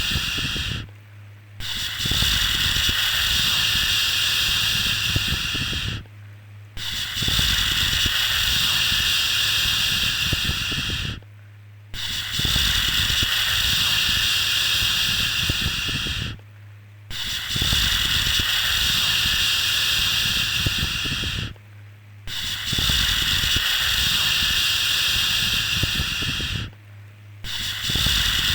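A long 'shhh' shushing sound, held for about four and a half seconds and then paused briefly, repeating about every five seconds: the looped shush used to soothe a baby to sleep.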